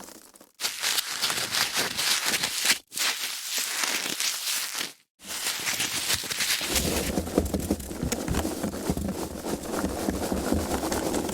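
Foam packaging being handled: dense crackling and rubbing made of many tiny clicks, in short takes broken by brief silences about half a second, three seconds and five seconds in. From about seven seconds on the handling gets fuller and heavier.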